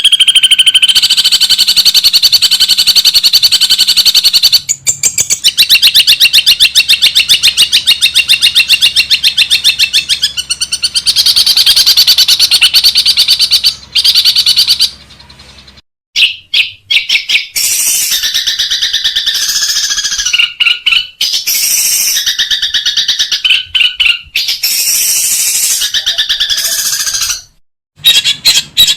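Long-tailed shrike (cendet) singing loud and high: a long, very fast rattling run of repeated notes, the 'ngekek tembakan' burst, then after a short break about halfway, a string of varied call phrases with brief gaps.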